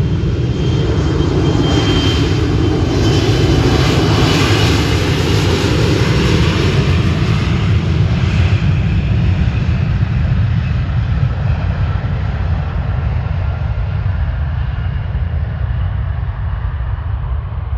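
Airliner's jet engines on a departing flight: a loud rushing roar that is strongest a few seconds in, then loses its high end and fades to a low rumble as the plane climbs away.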